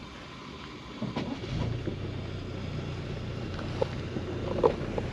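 Subaru Outback's engine idling steadily, a low hum heard from inside the cabin, with a few faint knocks.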